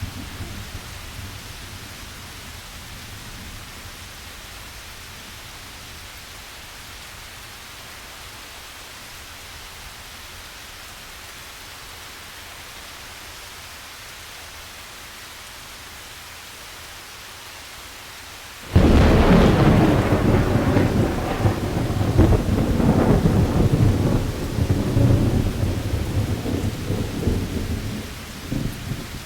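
Steady rain hiss, then about nineteen seconds in a sudden loud thunderclap that rolls and rumbles for about ten seconds before easing.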